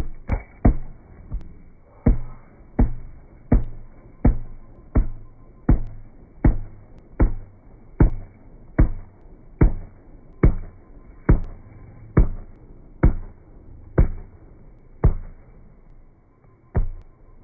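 Shoebill clattering its bill: a steady series of about twenty sharp, hollow clacks, a little over one a second, stopping near the end.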